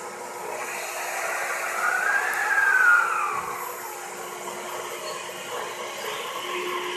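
Electric multiple-unit commuter train at a station platform, giving a steady electrical hum with a whine that rises and falls about two to three seconds in. The hum grows stronger near the end as the train starts to move off.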